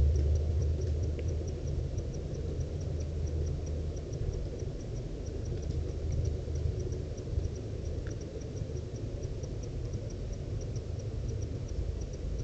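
Night-time outdoor ambience: a steady low rumble with a faint high chirp repeating evenly about four times a second, like a night insect calling.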